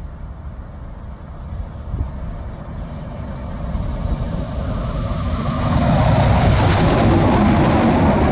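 Truck approaching along a road, its engine rumble and tyre noise building steadily until it is loud and close over the last few seconds.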